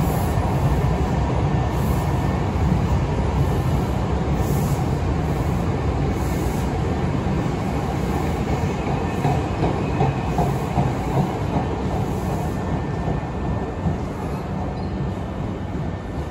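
Osaka Metro commuter train running past along the platform: a steady rumble from the cars with a clack every second or two. It fades near the end as the train clears the station.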